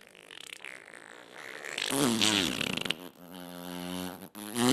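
Edited, distorted voice-like sounds. A short warbling vocal sound comes about two seconds in, then a steady buzzing tone is held for over a second.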